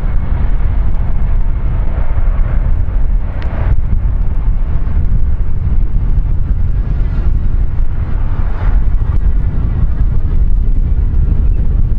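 Steady low rumble of wind buffeting the microphone, mixed with aircraft engine noise from the airfield.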